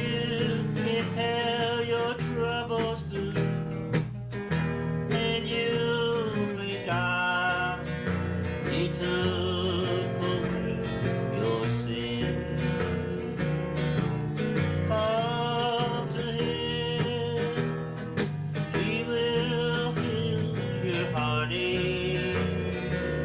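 Country gospel band playing an instrumental break between verses, led by guitar over a steady accompaniment.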